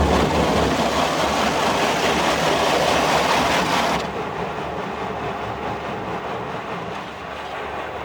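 Tammermatic T700 rollover car wash running, heard from inside the car: a loud rushing hiss that cuts off about four seconds in, leaving a quieter, lower steady rumble.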